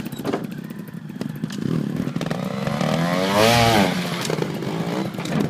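Trials motorcycle engine running in short blips, with one quick rev that rises and falls about three and a half seconds in, amid scattered knocks and clatter.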